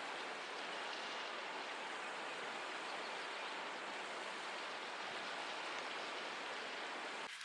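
Steady rushing of running water, like a stream, cutting in and out abruptly.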